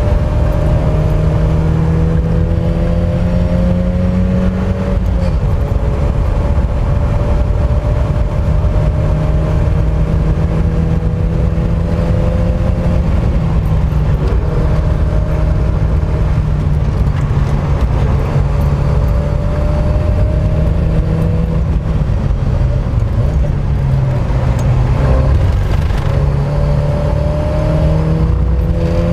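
Mk1 Mazda MX-5's four-cylinder engine driven hard on circuit. Its pitch climbs under acceleration and drops away sharply several times, at gear changes and braking, over heavy low wind and road rumble.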